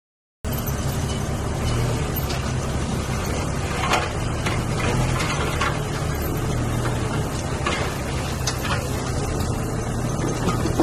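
Diesel engine of heavy earthmoving machinery running steadily, with scattered short clanks and knocks. The sound starts after a brief silent gap about half a second in.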